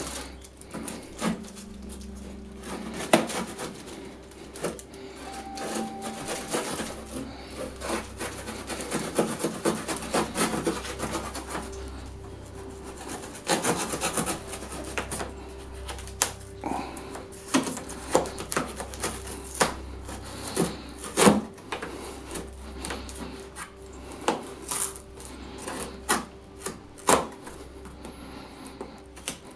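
A large cardboard box being cut open down the side with a knife: repeated rasping, sawing strokes through the cardboard, with scattered sharp knocks and clatter of the packaging being handled.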